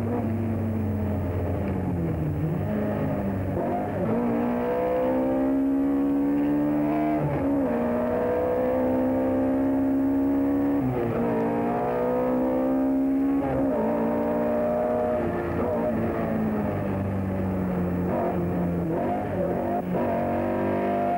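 Rally car engine heard from inside the cabin, accelerating hard up through the gears: the pitch climbs steadily and drops sharply at each gear change, about four times in the first fourteen seconds, then falls away and rises again near the end.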